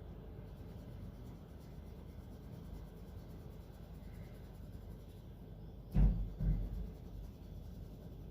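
Crayon rubbing on paper as a background is coloured in, a faint steady scratchy rustle. About six seconds in come two dull thumps, half a second apart.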